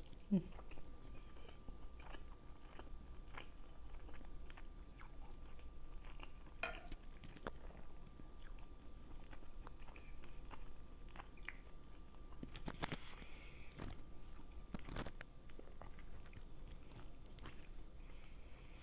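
Close-up chewing and biting: wet mouth clicks and smacks of someone eating fish and egusi soup, with a faint steady hum underneath.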